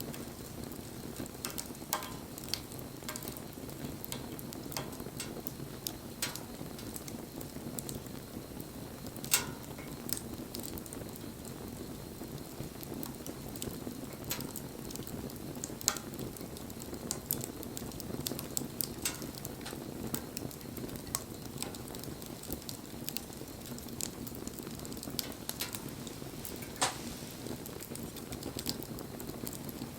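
Wood campfire burning: a steady low rushing of the flames with scattered sharp crackles and pops, a few of them much louder than the rest.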